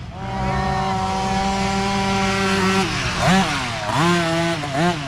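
Small mini dirt bike engine held at high revs steadily for a few seconds, then the pitch drops and it is blipped up and down in a quick series of short revs.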